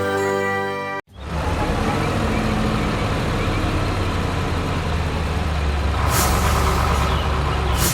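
Heavy truck engine running steadily with a low rumble, with two short air-brake hisses, one about six seconds in and one near the end. A tonal musical phrase cuts off abruptly about a second in.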